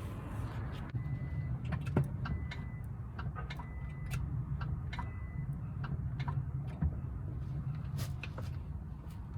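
A series of irregular light clicks and taps over a steady low hum, with a faint thin high tone in the first half.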